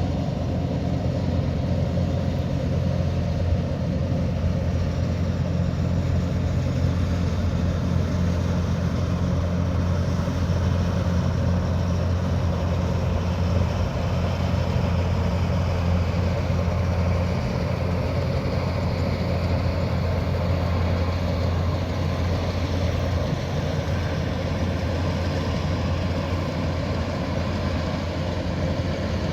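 Kubota DC108X combine harvester's diesel engine running with a steady low drone while the machine works, with a mechanical whir over it.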